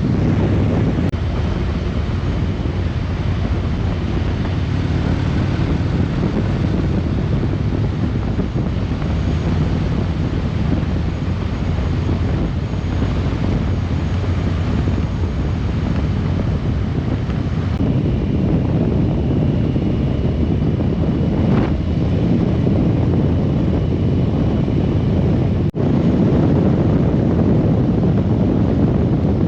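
Riding at road speed on a 2020 Harley-Davidson Road Glide Limited: steady wind rushing over the microphone on top of the low drone of the V-twin engine and road noise. The sound cuts out for an instant about three quarters of the way through.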